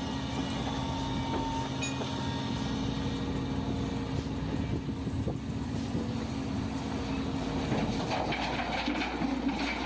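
Heavy diesel machinery running steadily, from a large Hyundai hydraulic excavator loading a dump truck, with a rougher, noisier stretch near the end.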